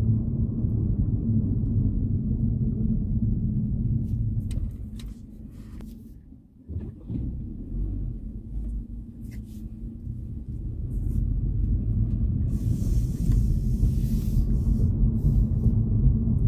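Road and engine rumble heard inside a moving car's cabin. It grows quieter about five seconds in, dips lowest around seven seconds, then builds back up to a steady rumble over the last few seconds. A few faint clicks and a short hiss fall in the middle and later part.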